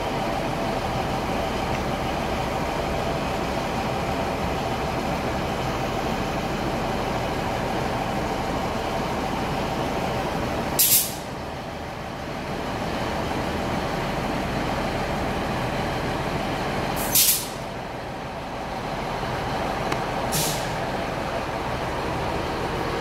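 A train standing at a station, running with a steady hum, lets out three short, sharp hisses of air from its brakes: one near the middle and two more toward the end.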